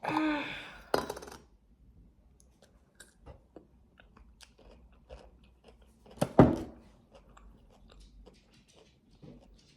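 A person chewing a rice ball, with many small mouth clicks and a louder single sound about six and a half seconds in. A brief vocal sound comes at the start.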